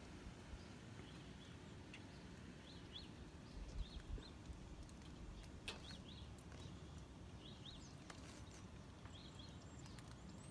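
Near-quiet outdoor air with a small bird chirping faintly now and then, short chirps often in pairs, plus a few soft low thumps about four seconds in.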